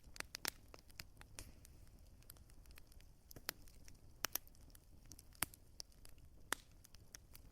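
Wood fire crackling: irregular sharp pops and snaps over a faint low rumble, the loudest snap a little past the middle.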